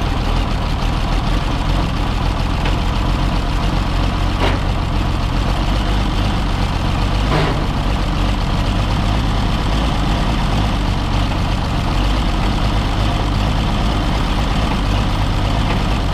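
Oliver 77 tractor's six-cylinder gasoline engine running steadily, with two short sharp clicks in the first half. The freshly freed engine runs a little rough, which the owner puts down to carburettor and timing adjustment.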